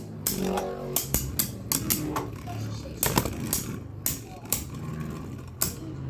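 Beyblade Burst spinning tops clashing in a plastic stadium: a run of sharp, irregular clicks and clacks, a few each second, with voices alongside.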